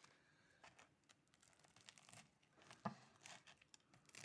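Faint crackling crunches of a deep-fried, double-breaded fish piece's crispy breadcrumb coating being broken or bitten into, with a sharper crack about three seconds in.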